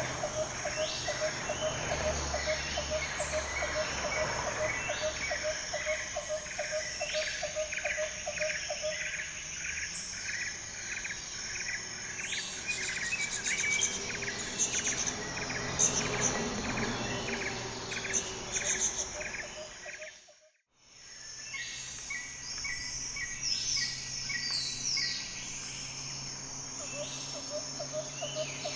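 Insects chirring steadily, with repeated bird chirps and short calls over them. The sound cuts out briefly about twenty seconds in.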